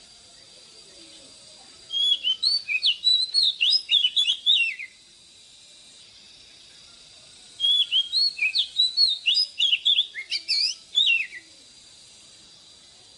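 Oriental magpie-robin singing: two phrases of rapid, varied whistled notes sliding up and down, the first about two seconds in and the second about seven and a half seconds in.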